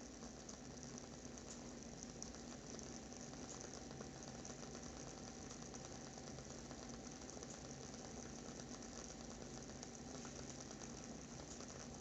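Wooden wick of a WoodWick candle crackling as it burns: a faint, dense, steady run of tiny pops and ticks, over a faint steady hum.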